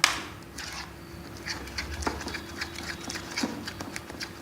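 Spoon beating thick besan (gram-flour) batter in a bowl, ticking and tapping against the bowl in a quick uneven run, with a loud knock at the start.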